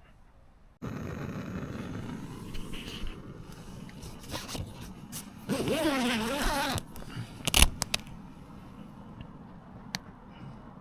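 Rustling and handling noise inside a tent, with the tent door's zip pulled for about a second midway, followed by a sharp click.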